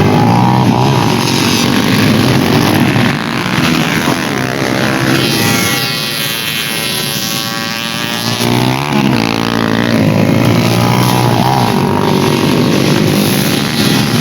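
Dirt bike engines revving hard on a race track, with one bike passing close about halfway through, its pitch sweeping.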